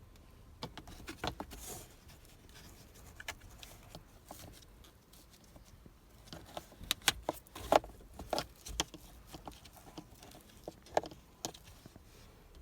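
Hands working the plastic glove box and cabin air filter housing of a car: scattered plastic clicks and knocks with light rustling, in clusters, the loudest knocks coming about seven to nine seconds in and again near eleven seconds.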